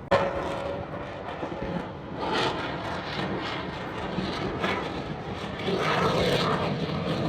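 Aircraft engine noise from a plane flying past, a steady wash of sound that grows somewhat louder in the second half.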